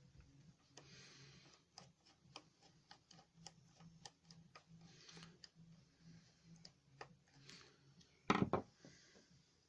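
Irregular light clicks and scraping from hand tools working on the hedge trimmer's metal gearbox plate and screws, with one louder clunk a little over eight seconds in.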